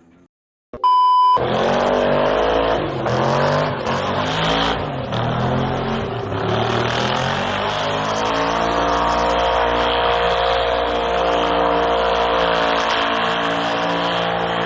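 A vehicle engine running hard at high revs, its pitch wavering up and down, with a hiss over it. It starts suddenly after a short, high beep about a second in.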